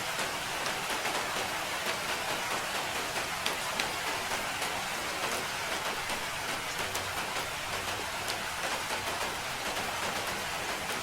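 Steady rain falling and pattering on a surface, a dense even hiss dotted with many small individual drop ticks.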